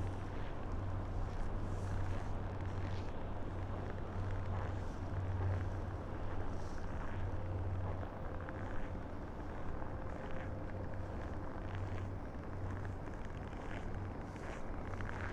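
Strong wind buffeting an inadequately shielded microphone: a steady low rumble that swells and eases with the gusts.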